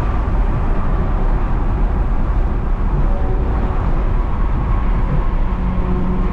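2022 Lexus IS350's 3.5-litre V6, running through a mid-pipe with no secondary cats and a muffler-delete axle-back, driving at steady speed: a continuous low exhaust drone mixed with road noise.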